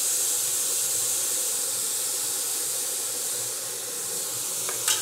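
Chopped onion, tomato and green chilli sizzling in a hot, dry Prestige Omega Deluxe granite-coated non-stick frying pan on an induction cooktop: a steady hiss that eases slightly, with a light clink near the end.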